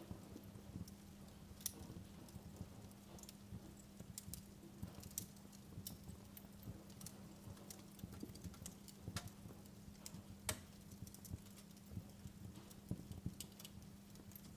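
Wood fire in a fireplace crackling, with irregular sharp pops, a couple of them louder, over a steady low hum.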